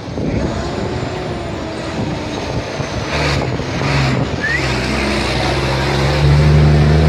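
Dakar rally race truck engine coming closer, its low, steady note growing louder from about three seconds in and loudest near the end.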